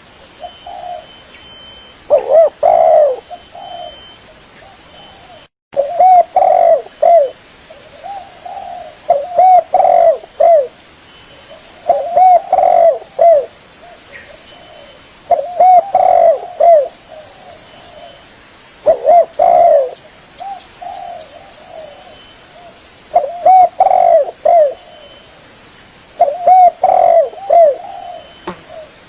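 Spotted dove (tekukur) song played as a bird-trapping lure: repeated cooing phrases of several low, bending notes, one phrase every three to four seconds. There is a brief silent dropout near six seconds.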